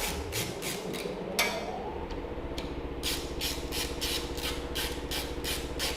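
Briggs & Stratton DOV overhead-valve mower engine running, with its speed rising about a second and a half in and then holding steady, and a regular beat about three to four times a second. It is running again just after its valve clearance was opened up to cure a no-restart fault.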